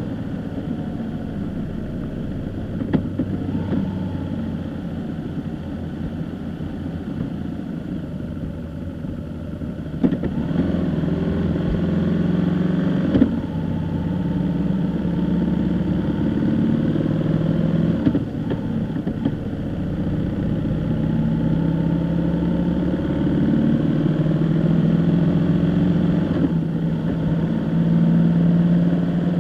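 A car driving, its engine note rising and falling with speed over steady road noise, with a few brief knocks.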